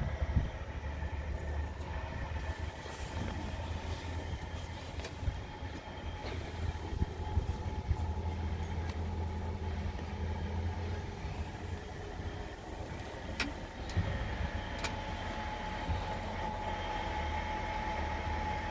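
Scania R450 truck's 13-litre six-cylinder diesel running with a steady low drone. A couple of sharp ticks come about two-thirds of the way in, and a higher steady whine grows over the last few seconds.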